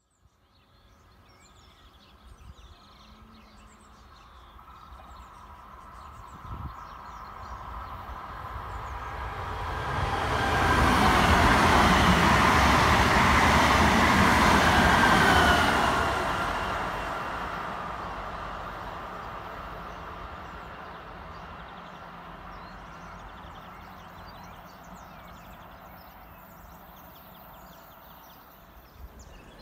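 Trenitalia ETR 521 "Rock" double-deck electric multiple unit approaching and passing at speed: the rush and rumble of its wheels on the rail build up steadily, are loudest for about six seconds as the train goes by, then fade away.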